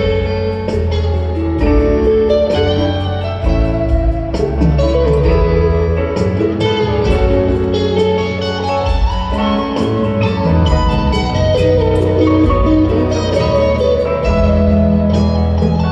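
Live rock band playing an instrumental passage: an electric guitar lead with bending, gliding notes over bass and drums.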